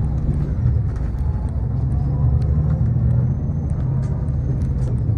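Steady low rumble of a moving road vehicle, heard from inside among its passengers: engine and road noise, with a faint wavering motor tone and a few small clicks.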